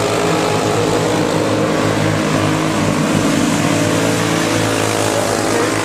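Several racing go-kart engines running together, their pitches rising and falling as the karts speed up and slow down around the track.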